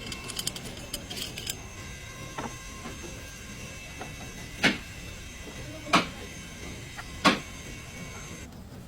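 Three sharp knocks, evenly spaced about a second and a quarter apart, over a faint steady high whine, with a few lighter clicks near the start.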